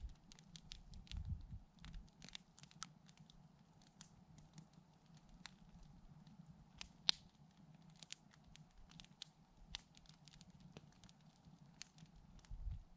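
Campfire crackling quietly: sparse sharp snaps and pops from the burning wood, one louder pop about seven seconds in.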